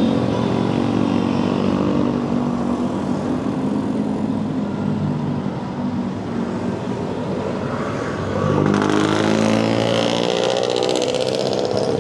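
Aprilia RS 457 parallel-twin engine running steadily at idle. About nine seconds in, a second, higher-pitched engine sound joins and the sound gets louder.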